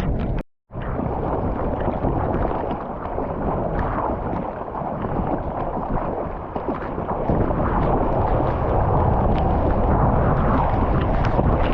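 Muffled rumble of churning seawater and wind on the camera, with small crackles of spray or bubbles; the sound cuts out completely for a moment about half a second in.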